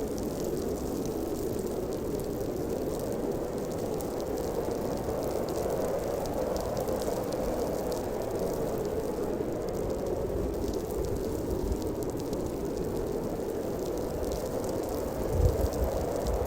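Blizzard wind blowing steadily, a hollow rushing noise, with a brief low rumble near the end.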